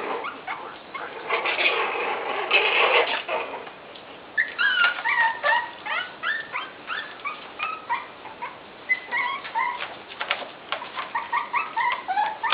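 Newborn puppies squeaking and whimpering: many short, high squeals in quick succession, after a couple of seconds of rough noise.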